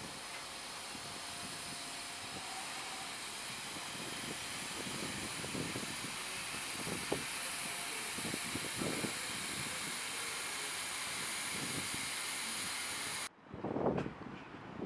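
Freight train of bogie hopper wagons rolling past: a steady hiss of wheels on rail with occasional short clunks from the running gear. The sound cuts out abruptly near the end, then comes back with a louder burst.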